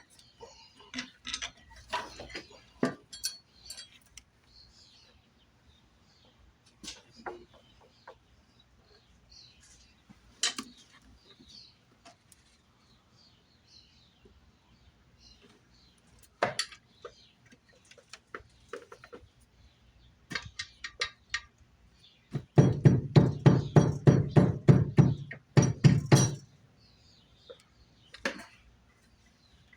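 Hand tools and metal engine parts clinking and knocking, scattered and irregular, with a dense run of rapid clicking about two thirds of the way through that is the loudest part.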